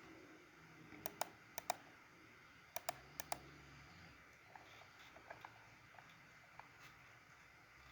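Sharp clicks of a computer keyboard and mouse: two quick groups of about four clicks, about a second in and about three seconds in, then a few faint ones, as an AutoCAD offset value is typed in and lines are picked.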